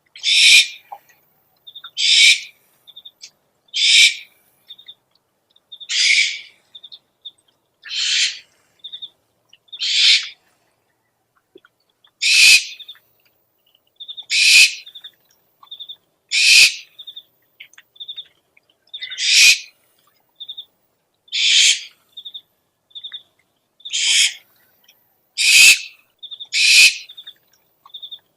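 Owl calls from a lure recording: a harsh, hissing screech about every two seconds, with short high pips in the gaps between them.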